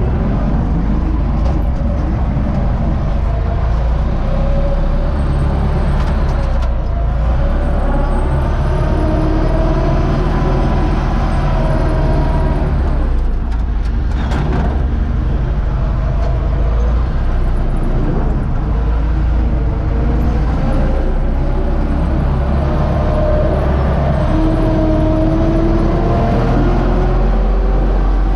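A Universal 650 tractor's four-cylinder diesel engine runs steadily under load, with a deep continuous rumble and a few tones that slowly drift up and down in pitch.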